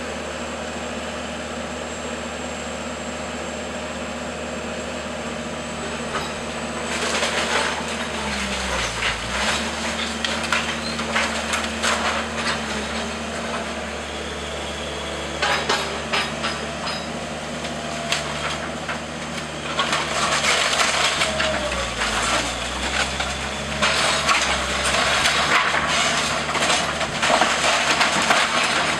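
A diesel engine of heavy demolition machinery runs steadily, its note dipping under load twice. Wooden walls and timbers crack and crunch in long stretches as the house is torn down and broken into pieces.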